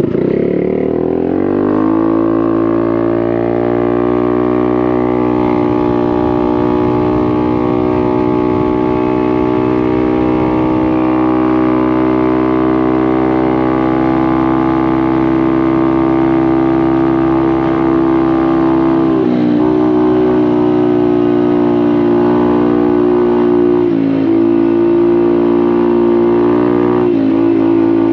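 Honda Navi's small single-cylinder scooter engine through a Vance & Hines exhaust, revving up hard at full throttle and then holding a steady high pitch as the belt drive keeps the revs up while the scooter gains speed. The pitch dips briefly three times in the second half as the throttle eases and comes back.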